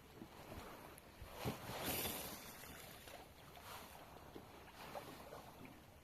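Water swishing and splashing around a kayak, in a few short rushes.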